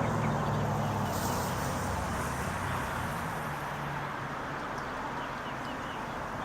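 A motor vehicle's engine hum fading as it moves away, leaving steady outdoor traffic noise. Small birds chirp faintly.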